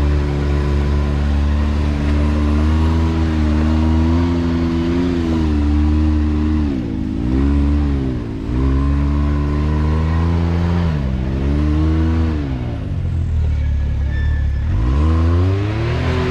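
Can-Am X3 side-by-side's turbocharged engine working over a rock obstacle. It runs at steady revs, and the revs drop and pick up again several times as the throttle is lifted and reapplied.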